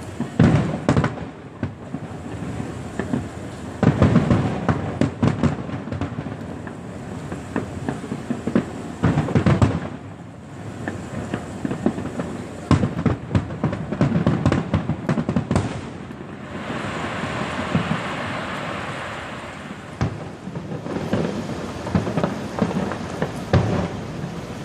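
Aerial fireworks going off in clusters of bangs and low booms every few seconds, with a stretch of dense crackling from glittering shells a little past the middle.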